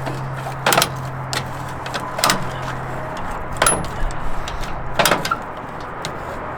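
Sharp clunks, four of them about a second and a half apart, like doors or parts being handled, over a steady low hum.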